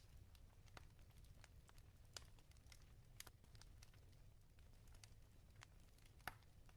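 Wood fire crackling in a fireplace: irregular small pops and snaps over a low rumble, with one sharper pop near the end.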